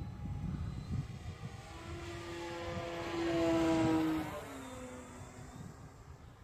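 Electric motor and propeller of a balsa RC Fieseler Fi 156 Storch model flying past. The whine swells to its loudest about four seconds in, then drops in pitch and fades as the plane goes by.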